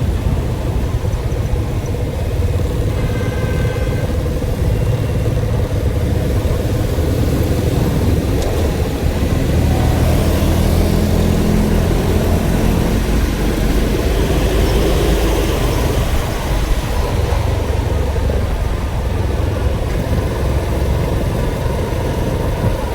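A motor vehicle running steadily, with a dense low rumble of engine and road noise that swells slightly about halfway through.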